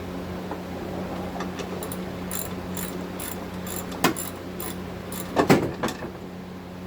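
Hand ratchet wrench clicking in quick strokes, about three clicks a second, with two louder metal clanks partway through.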